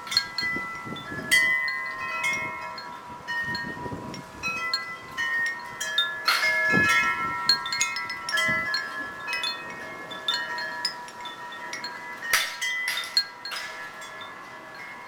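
Wind chimes ringing in gusty storm wind, struck over and over so that several held tones keep sounding, with the hardest clangs about six and twelve seconds in.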